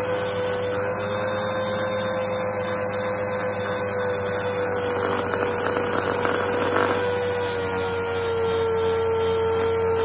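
Dual-action sander with 80-grit paper running steadily against a steel axe head, a constant whine over hiss, dipping slightly in pitch about three quarters of the way through as it is loaded.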